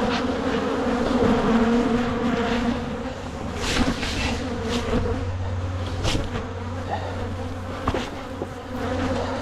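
Swarm of honeybees buzzing steadily and loudly around an open hive, with single bees zipping close past now and then. The colony is agitated and defensive, striking hard.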